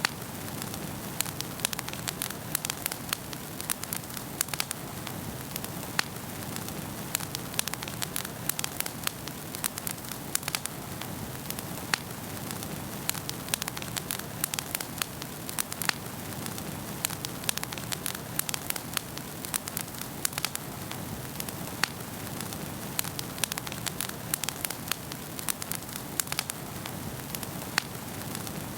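Wood fire crackling in a fireplace: a steady low rush of burning with frequent sharp, irregular pops and snaps.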